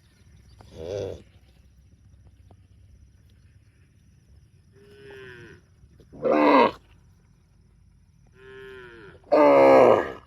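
Cows mooing: a short moo about a second in, then twice a quieter call followed by a loud, drawn-out moo, the loudest near the end.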